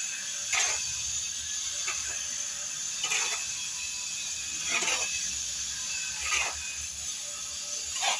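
Six short scraping strikes of a hand tool in a slow, even working rhythm, about one every one and a half seconds, over a steady hiss.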